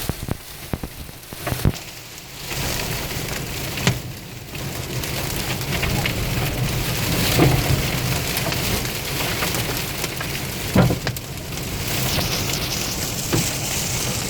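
Heavy rain of a violent wind storm pelting down, a dense hiss full of sharp spattering hits with a few harder knocks; it grows louder a couple of seconds in and stays heavy.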